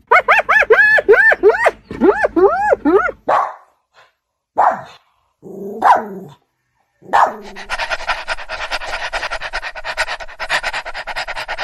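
A dog giving quick runs of high-pitched, rising-and-falling yelps, then a few single calls, then panting rapidly for the last four seconds or so.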